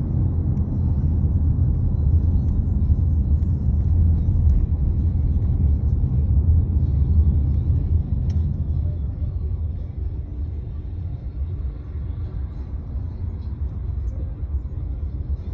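Low, steady rumble of truck engines, easing off a little after about nine seconds.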